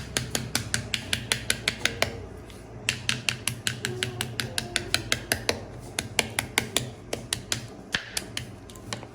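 Knife chopping rapidly on a cutting board, about six sharp strokes a second, in runs with a short pause about two seconds in and slower, looser strokes near the end.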